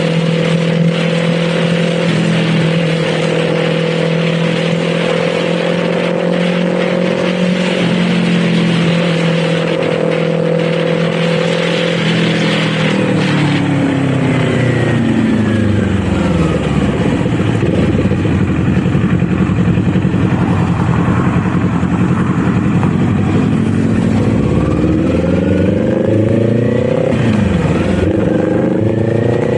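Kawasaki Z400's parallel-twin engine heard from the rider's seat: it holds steady revs for about twelve seconds, then the revs drop as the bike slows, run low for several seconds, and climb again in steps as it accelerates near the end.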